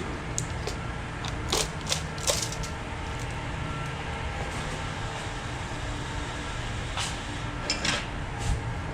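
Hand tools and metal engine parts clinking and knocking now and then during an engine teardown: a few sharp clicks about two seconds in and again near the end, over a steady shop hum.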